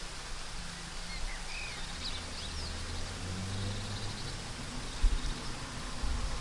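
Steady rain hiss with a few short, quick bird chirps in the middle, over a low rumble. A brief low thump about five seconds in.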